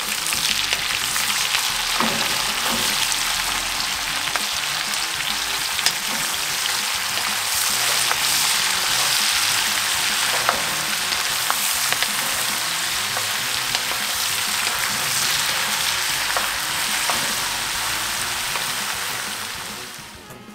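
Beef, sliced onions and mushrooms sizzling and frying in a cast-iron potjie pot while a wooden spoon stirs them. A steady hiss with occasional sharp clicks, fading out just before the end.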